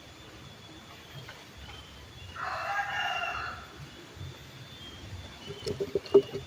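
A rooster crows once, a single drawn-out call lasting over a second, about two and a half seconds in. Near the end come a few sharp knocks, the loudest of them just before the end.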